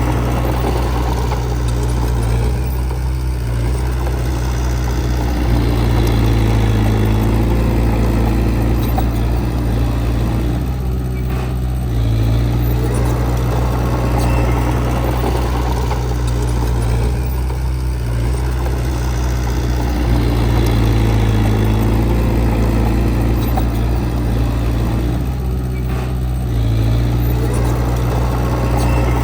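Diesel engine of heavy earthmoving machinery running steadily, its load swelling and easing in a repeating cycle about every seven or eight seconds.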